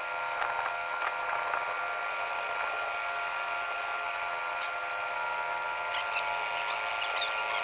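Steady mechanical whine of machinery running, holding several pitches at once, with scattered small ticks and clicks over it.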